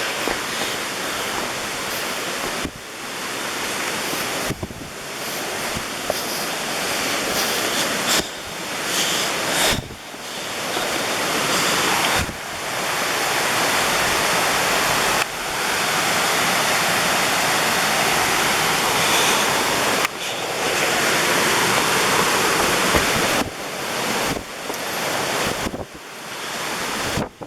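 Waterfall's water rushing in a loud, steady roar. The level drops suddenly several times and builds back up.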